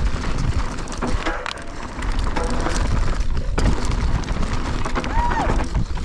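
Mountain bike descending a downhill race course, heard from an action camera riding along: wind buffeting the microphone over tyres on dirt and the bike rattling, with sharp knocks over bumps. A brief squeal about five seconds in.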